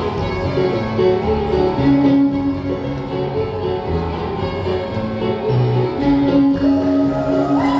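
Live dance band playing a reel for Scottish country dancing, with steady sustained melody notes over a rhythmic accompaniment.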